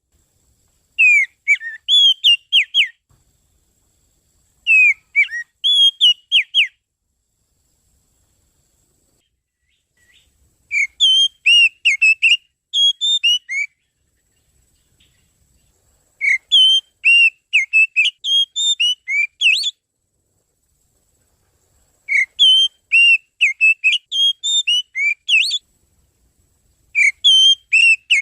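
Oriental magpie-robin (kacer) song played as a lure call: rapid phrases of clear, sweeping whistled notes, about six phrases of one to three seconds each with short silent pauses between them.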